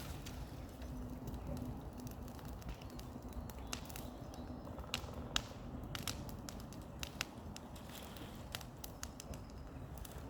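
Wood crackling and snapping in a bonfire: irregular sharp cracks, a dozen or so, over a low rumble.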